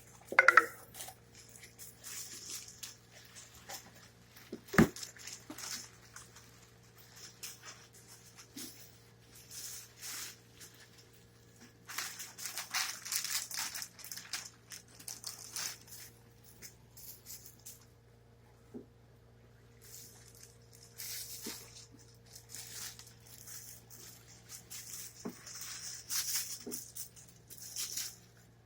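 Intermittent rustling and crinkling with scattered clicks, and one sharp knock about five seconds in, over a steady low hum.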